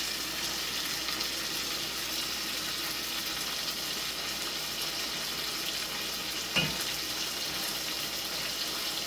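Chicken back pieces frying in hot oil in a pot, a steady sizzle. A single short knock about two-thirds of the way through.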